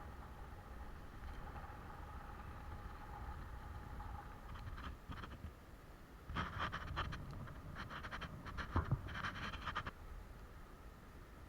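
Close scraping and rustling in several short bursts over a few seconds, over a faint steady hum.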